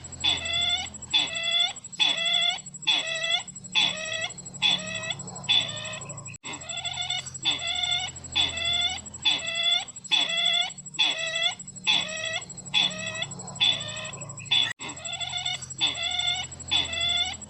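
Recorded call of the sisintar ladang bird played in a loop as a lure: about one harsh, curving note per second, repeated steadily, with a faint steady high whine underneath. The sequence breaks off and restarts twice, about six seconds in and again near the end.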